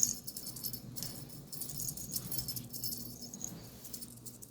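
Small bells on a cat toy jingling in short shakes, about once a second, as the kitten plays with it.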